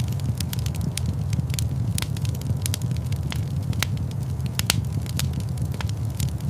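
Wood fire crackling in a fireplace: frequent irregular pops and snaps over a steady low rumble of flames.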